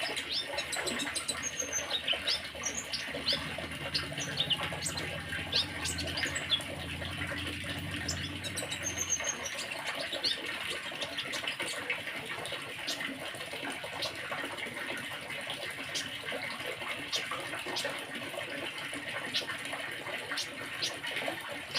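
Small songbirds chirping, many short high chirps at an irregular pace, thicker in the first half, over a steady hiss. A low hum stops about nine seconds in.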